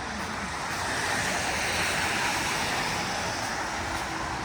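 Tyres hissing on a wet road as a vehicle passes, the rushing noise swelling to a peak about two seconds in and then fading.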